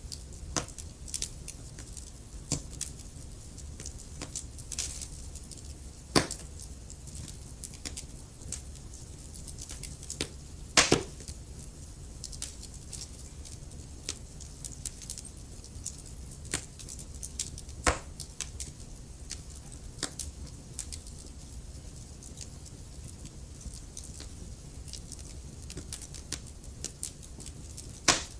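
Wood fire burning in a fireplace: logs crackling and popping irregularly over a low, steady rumble of the flames, with a few sharper pops, the loudest about eleven seconds in.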